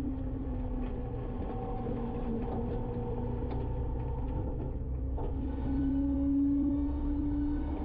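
Garbage truck's engine running with the packer's hydraulics working: a steady low rumble under a whining tone that weakens about a second in and comes back strongly about five and a half seconds in.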